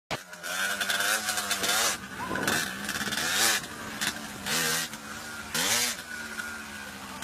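Motorcycle engine revving in repeated blips, its pitch rising and falling several times.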